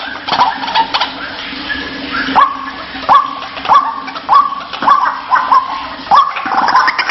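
White-breasted waterhen calling: a rough, noisy start, then from a couple of seconds in a run of about eight loud 'kruwak' notes, each rising sharply and then held briefly, repeated about every 0.6 seconds.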